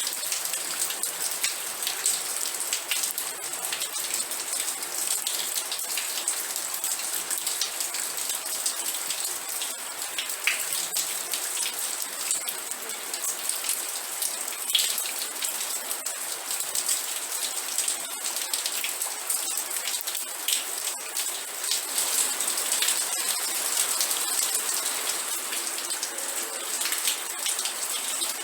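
Steady rain with many close, crisp drops pattering on a surface.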